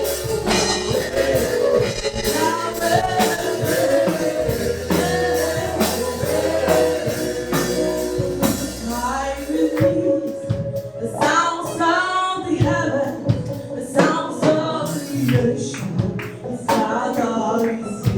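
Live gospel praise music: a church choir singing over a band with a steady percussion beat. The low bass drops out about halfway through.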